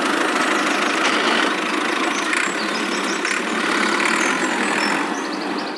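Tractor engine running steadily, cutting off abruptly at the end.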